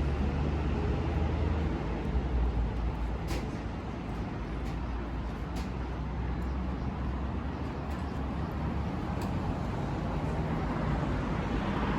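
Steady vehicle rumble with a strong low hum and a few faint clicks.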